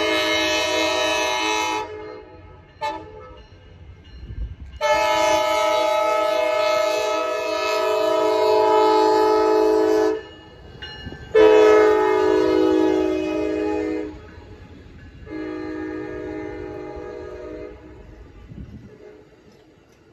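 Amtrak passenger locomotive's air horn sounding a series of blasts for a road grade crossing over a low train rumble. The blasts come as a long one, a brief toot, a long one of about five seconds and another of about three seconds, then a fainter blast near the end.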